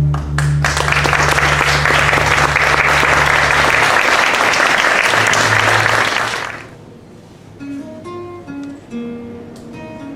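Audience applauding for about six seconds over a low held note that fades out about four seconds in; after the applause stops, a plucked string instrument starts playing single notes.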